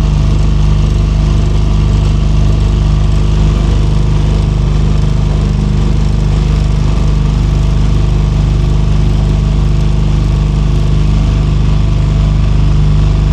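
Small motorboat engine running steadily at an even speed, heard close by from aboard the boat.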